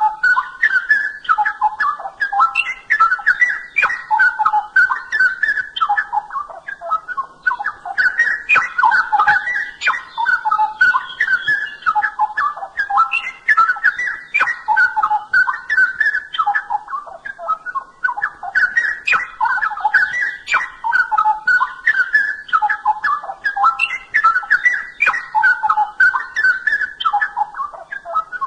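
Straw-headed bulbul (cucak rowo) singing: rapid, liquid, whistled warbling in long phrases separated by short pauses.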